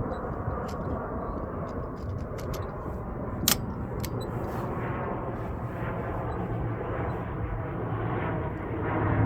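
Wind buffeting the microphone in a steady rumble, with a few faint clicks and one sharper click about three and a half seconds in.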